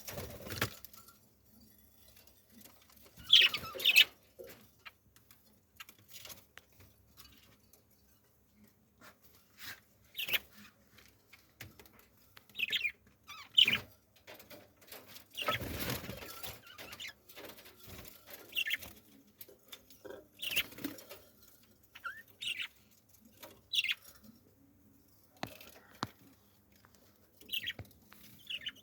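Birds giving short, sharp chirps every second or two, with bursts of wing flapping and rustling in between.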